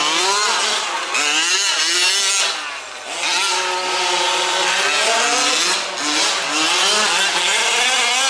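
Several 1/5-scale RC off-road trucks with small two-stroke petrol engines racing, their engines revving up and falling off at different pitches at once, with brief dips about a third of the way in and again past the middle.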